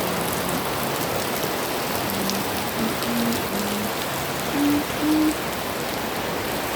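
Heavy rain falling steadily, a dense even hiss of drops. Over it comes a string of short, low hooting notes, each about a quarter-second long, stepping up in pitch; the loudest two come just past the middle.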